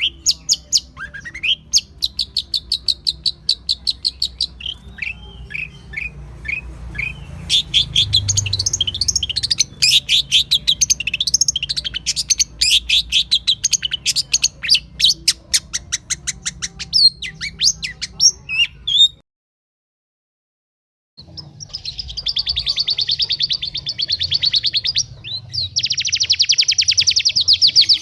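Small songbirds singing rapid, sharp repeated chirps and fast chattering trills. A gap of about two seconds of silence falls about two-thirds of the way through, and after it a denser, very fast trill follows.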